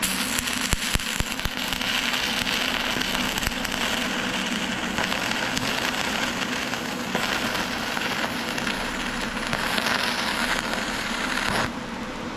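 Wire-feed welder arc crackling steadily for about eleven and a half seconds as a bead is laid, starting and cutting off abruptly with the trigger.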